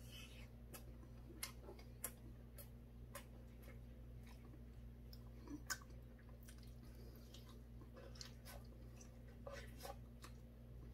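A person chewing and biting a chicken wing, with faint scattered mouth clicks and crunches over a low steady hum; a few sharper clicks stand out, the loudest about six seconds in.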